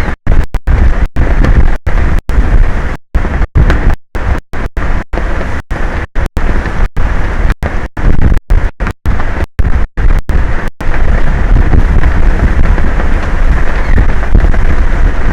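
Strong wind buffeting an exposed outdoor camera microphone: a loud, heavy rumble with no tones in it. For the first ten seconds or so the audio cuts out for split seconds again and again, then it runs on unbroken.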